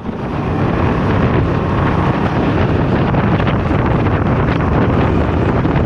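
Heavy wind noise on the microphone over the road and engine noise of a Can-Am Ryker 600 three-wheeler on the move at speed. Steady, loud, and cut off abruptly at the end.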